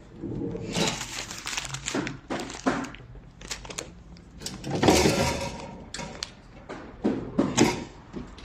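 Kitchen cabinet pull-out rack sliding out and back on its runners, with several knocks and thunks from the cabinet fittings.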